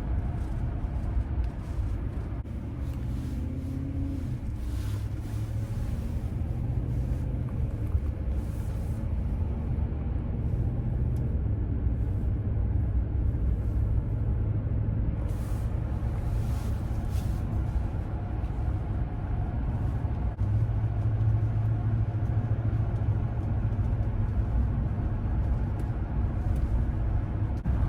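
Ram pickup's Hemi V8 and road noise heard from inside the cab while driving: a steady low rumble.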